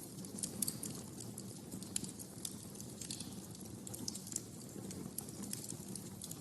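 Wood fire burning in a fireplace: a steady low rumble with irregular sharp crackles and pops, several close together about half a second in and around two seconds in.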